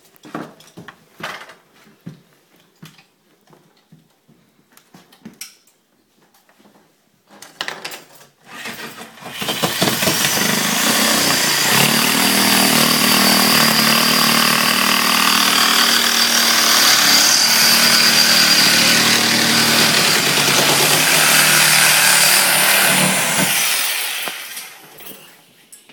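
Scattered knocks and handling clatter, then an electric power saw runs steadily for about fourteen seconds, starting about nine seconds in and winding down near the end.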